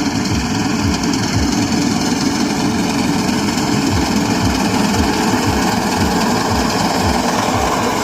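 Tractor engine running steadily, with a regular low thumping about three times a second.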